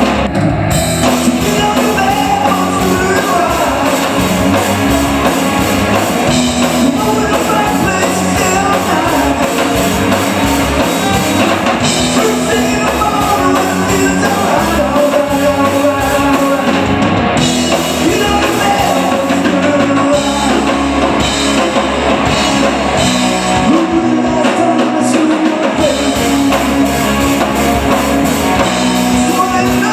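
Live rock band playing loud, with drum kit, electric guitar and singing.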